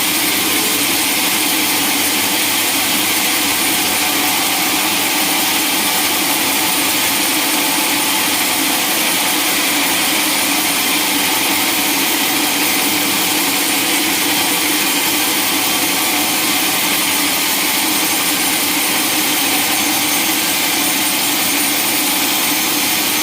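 Sawmill saw machinery running steadily, a constant loud mechanical noise with no breaks or changes in pitch.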